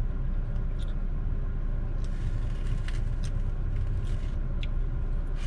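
Steady low rumble of a car running while parked, heard inside the cabin, with a few faint short clicks over it.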